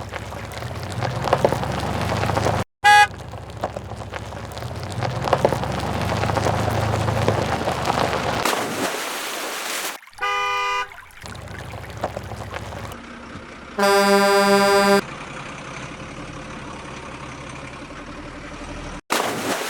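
Vehicle horn toots: a brief one about three seconds in, another just after ten seconds, and a pulsing, warbling one around fourteen seconds. A rough, rumbling motor-like noise runs underneath for the first half and stops suddenly.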